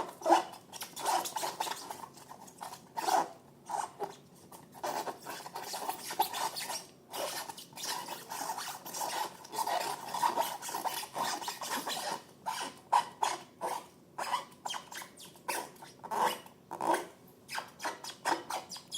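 Slime being squeezed and worked by hand: a long run of sticky squelches and quick crackling clicks, denser through the middle, with a few sharper pops near the end.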